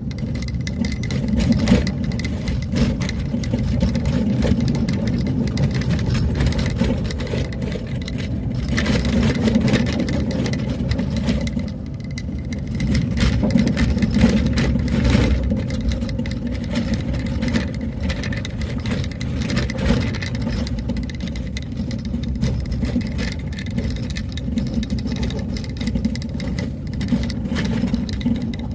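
Vehicle driving along a road: steady engine and road rumble, with frequent short knocks and rattles throughout.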